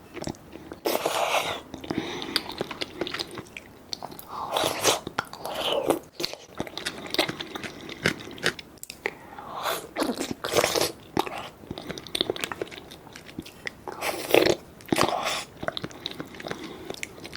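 Close-miked eating: a person biting and chewing, with irregular wet smacks, clicks and some crunching.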